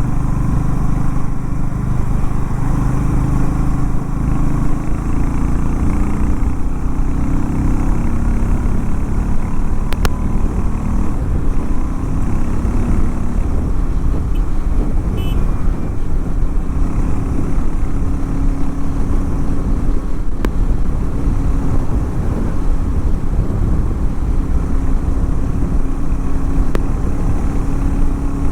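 Harley-Davidson X440 T's single-cylinder engine and exhaust running, its pitch shifting up and down for the first ten seconds or so, then holding steady.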